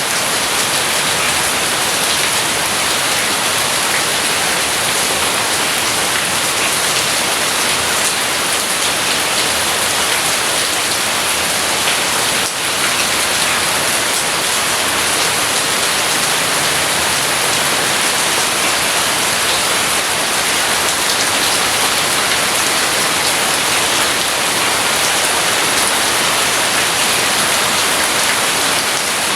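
Steady, heavy rain falling, an even hiss of drops with no thunder heard.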